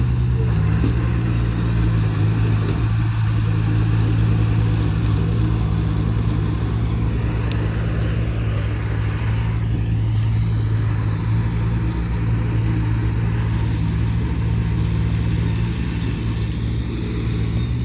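Diesel engine of heavy earthmoving equipment running at a steady speed, with a constant low drone. The pitch shifts slightly near the end.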